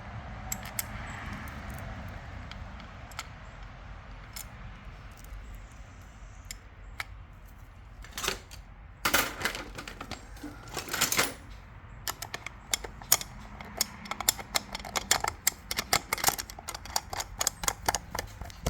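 Hand tool driving the screws into a chainsaw's crankcase halves: scattered clicks and a few louder metal knocks and rattles, then rapid clicking through the second half.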